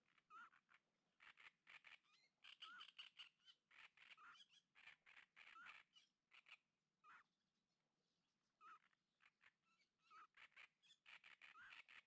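A bird chattering in the reeds: faint, fast runs of short harsh notes mixed with brief rising chirps, in bursts with a pause of about a second and a half past the middle.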